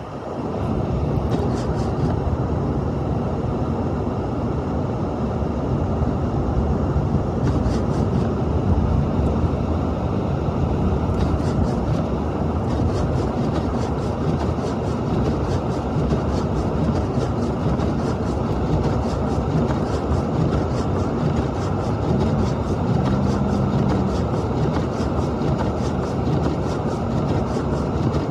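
Blizzard wind blowing hard and buffeting the microphone: a dense, steady low rush with no let-up.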